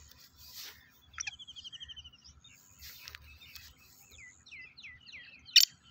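Birds calling: a quick high trill of rapid notes about a second in, then a run of short falling chirps, and a single loud, harsh burst near the end.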